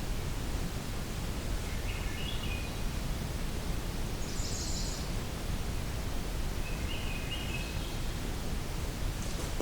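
Three short, faint bird song phrases over a steady low rumble of outdoor background noise; the second phrase is higher-pitched than the other two.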